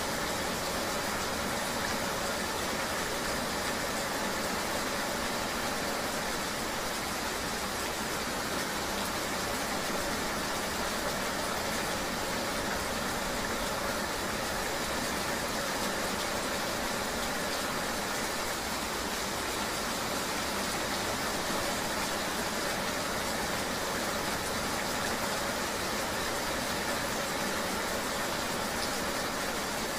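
Steady, even noise of a vehicle ride in the rain: an unbroken hiss of road and rain with a faint steady hum and no separate events.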